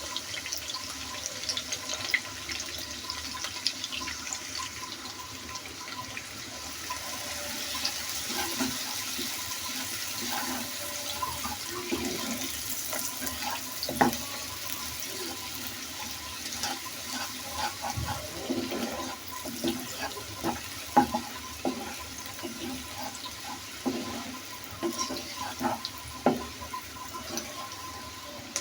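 Onions and green chillies frying in hot oil in a pan: a steady sizzling hiss with occasional knocks.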